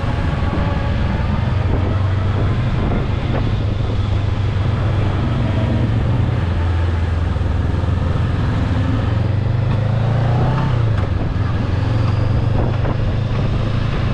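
Motorbike engine running steadily under way, with wind and road noise; the engine note rises briefly about ten seconds in.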